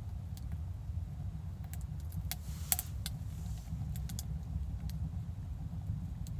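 Steady low rumble of an idling vehicle engine, with scattered light clicks and taps.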